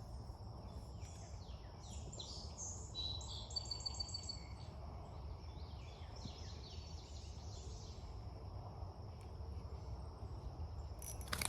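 Outdoor creekside ambience: birds singing in runs of quick falling chirps, over a steady high insect drone and a steady low rumble. A sharp noise comes near the end.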